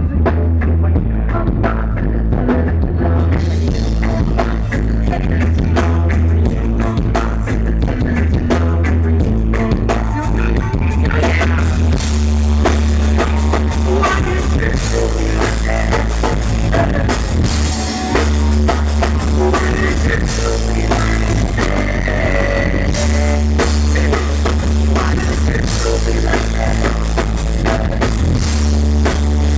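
A live rock band playing, with a drum kit and a heavy bass line.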